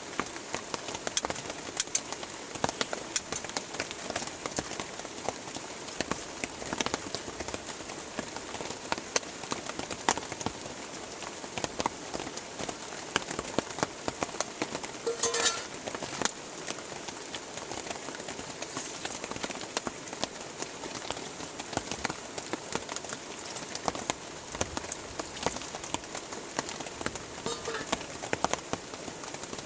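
Steady rain pattering, with many small drop hits on a surface close by. A bird calls briefly about halfway through and again near the end.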